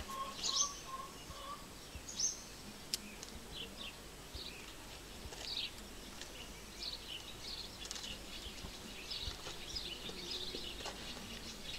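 Small birds chirping on and off, short high calls and a few quick falling notes scattered through, over faint background noise. A single sharp click about three seconds in.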